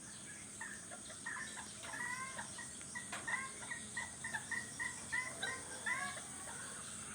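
A bird calling: a run of short chirping notes, several a second, some curving downward, stopping about six seconds in.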